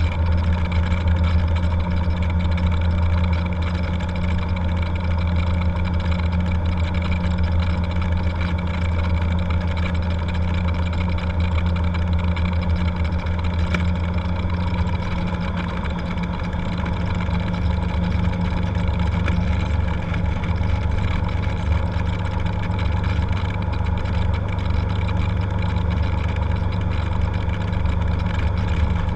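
Cessna 182's single piston engine and propeller running steadily, its low tone shifting slightly about halfway through.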